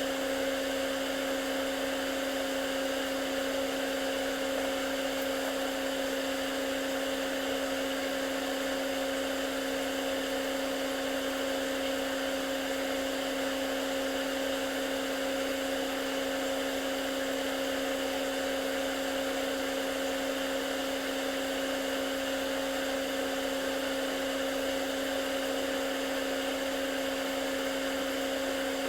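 Steady motor hum with a fixed-pitch whine that does not change.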